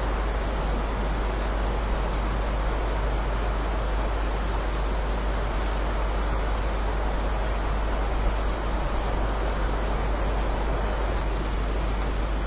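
Steady heavy rainfall, an even hiss of falling rain with a low rumble underneath.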